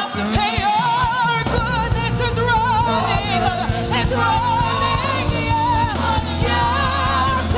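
Live gospel praise-and-worship music: a singer with wide vibrato over a band. Sustained bass notes come in about a second and a half in.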